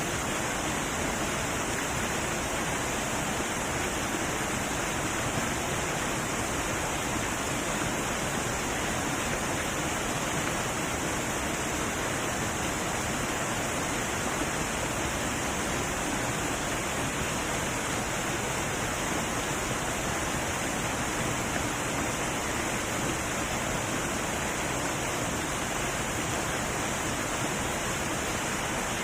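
Heavy waterfall rushing in a steady, unbroken roar of falling water.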